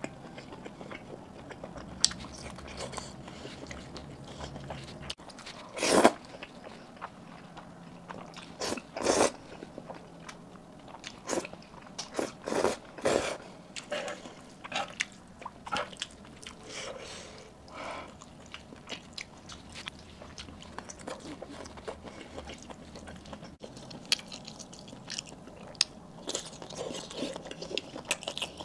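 Close-miked eating of grilled sausage and noodles: irregular bites and wet chewing, with louder sharp bursts scattered through, the loudest about six seconds in.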